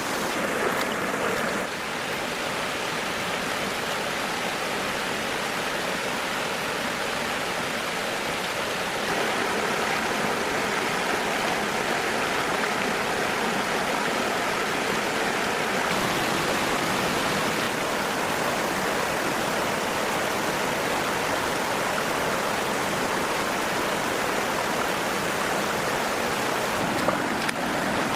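Steady rush of flowing stream water, with small shifts in the sound at several points.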